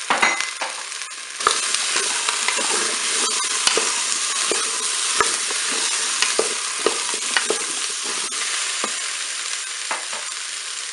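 Potato chunks and onions sizzling in hot olive oil in a Cookeo multicooker's non-stick bowl, being stirred with a wooden spatula that knocks against the pot. The sizzling gets louder about a second and a half in.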